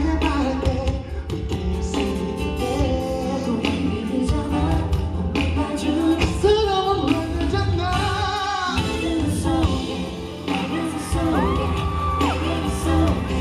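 Live pop concert: loud amplified music with a steady bass and a sung vocal line, heard from the audience in a large hall.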